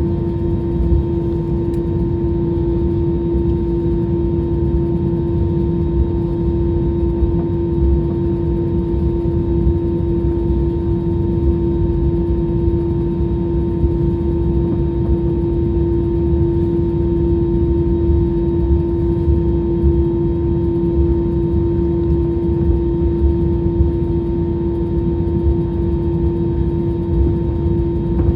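Jet airliner engines and cabin noise heard from inside the cabin: a steady drone with a constant mid-pitched hum over a low rumble.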